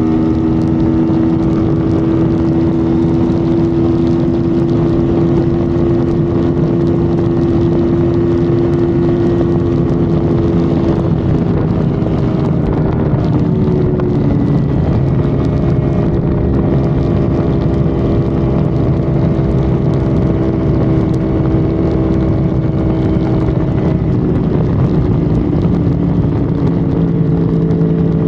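Honda Civic FD's engine running hard at steady highway speed under heavy road and wind noise, its pitch easing slightly in the middle before holding steady.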